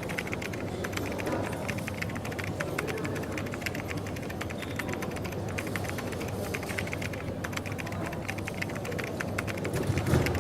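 Coffee shop ambience: a steady background murmur with rapid, light clicking and clatter throughout. A low thump comes near the end.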